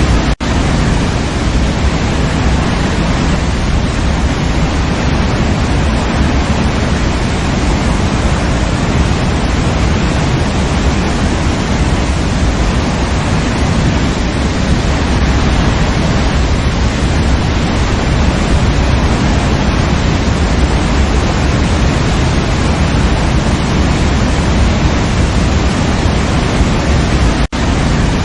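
Steady rushing of a waterfall, a dense, even roar of falling water. The sound drops out for a split second about half a second in and again near the end.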